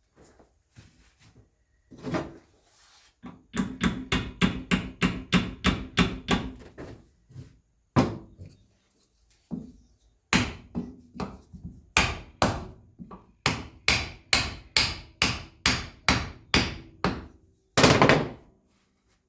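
Hammer striking the metal parts of a tractor's rear axle, in two fast runs of about three blows a second, with single heavier blows before, between and at the end.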